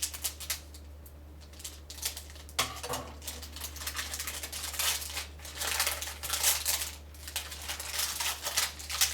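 Rustling, crinkling and clicking of plastic and cardboard packaging being handled and opened, busiest about halfway through, over a steady low electrical hum.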